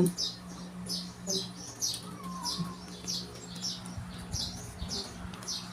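A small bird chirping repeatedly, short high chirps falling in pitch at about two a second, over a steady low hum.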